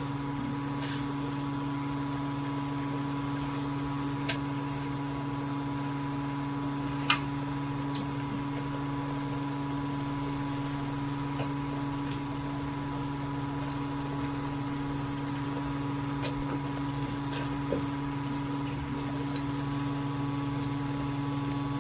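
A steady low hum over a faint even hiss, with a few short clicks, the sharpest about seven seconds in.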